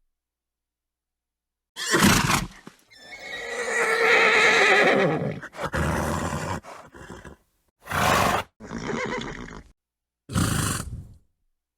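Horses neighing and snorting: one long, wavering whinny about three seconds in, between several short, noisy snorts. The pieces are cut apart by gaps of dead silence.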